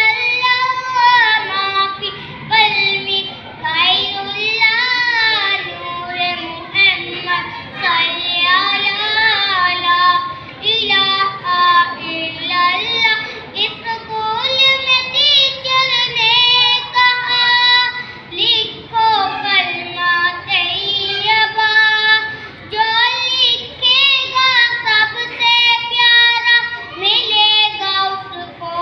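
A child singing a melody in short phrases, a high voice with wavering pitch.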